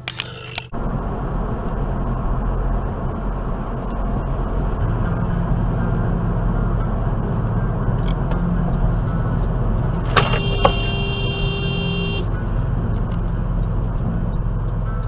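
Car driving with a steady engine and road noise, as picked up by a dashcam. About ten seconds in, a horn sounds for about two seconds.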